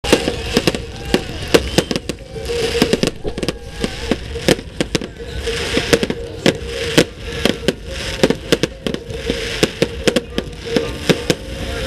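Fireworks display: rapid, irregular bangs of aerial shells, several a second, over continuous crackling.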